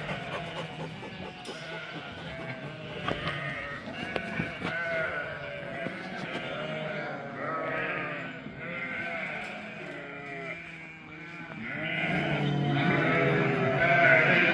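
Many livestock bleating at once, calls overlapping throughout and growing louder and denser near the end.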